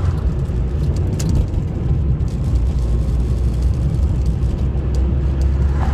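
Steady low rumble of a car being driven, heard from inside the cabin, with a few faint clicks.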